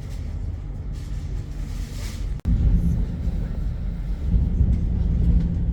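Low, steady rumble of a passenger train running. It cuts out for an instant about two and a half seconds in, then comes back louder.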